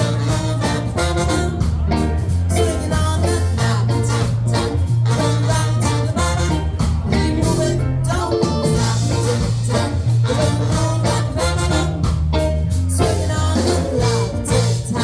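A live band playing a song: a prominent bass line, guitar and drums keeping a steady beat.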